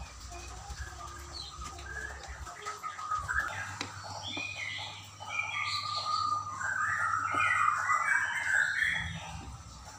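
Small birds chirping, many overlapping calls that grow busiest through the second half. Faint clicks from handling small parts sound underneath.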